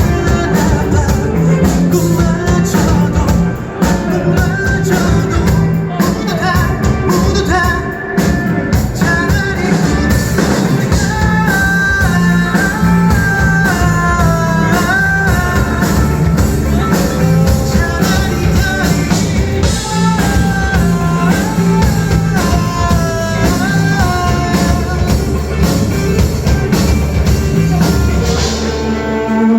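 Live rock band playing an instrumental passage of a song: drums, bass and a melodic lead line that bends between notes, thinning out just before the end.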